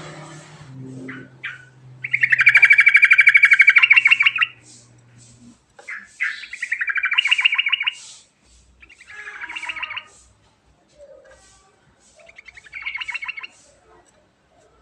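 Yellow-vented bulbul (trucukan) singing a rolling song in four rapid trilled phrases. The first phrase is the longest and loudest; the shorter ones follow every few seconds.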